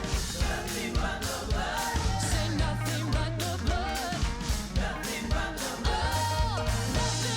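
Live worship music: singing over a band with drums and bass keeping a steady beat.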